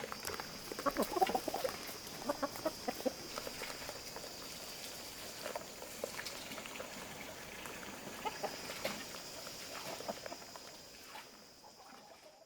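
Chickens clucking on and off, over a steady high-pitched insect drone; the sound fades out near the end.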